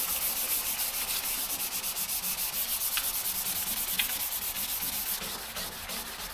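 Hand sanding primer on a car body panel with 500-grit sandpaper held flat under the hand, in rapid back-and-forth strokes. It knocks down runs and high spots and scuffs the surface for paint adhesion. The strokes ease off about five seconds in.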